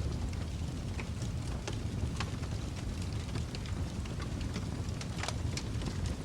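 Wood fire in a fireplace burning with a steady low rumble and irregular sharp crackles and pops, a few every second.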